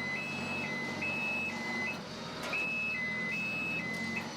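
Vehicle warning alarm going hi-lo, switching back and forth between two high pitches about twice a second, over a running engine. The alarm drops out for about half a second around two seconds in, then resumes.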